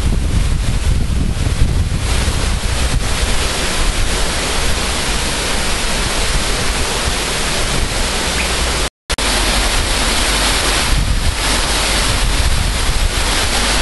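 Wind buffeting the microphone: a loud, steady rushing with a heavy low rumble, broken by a brief cut about nine seconds in.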